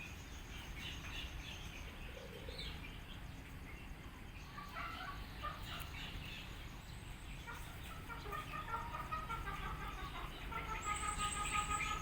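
Several birds chirping and calling, with short notes scattered throughout and a fast run of repeated notes near the end, over a steady low background rumble.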